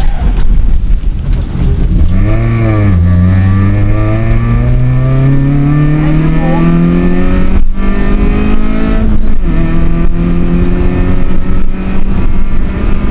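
Suzuki Swift GTI's four-cylinder engine heard from inside the cabin, driven hard on a rally stage. The revs dip and pick up a couple of seconds in, then climb in one long pull, cut off briefly at a gear change, drop again at a second shift and hold a steadier note to the end.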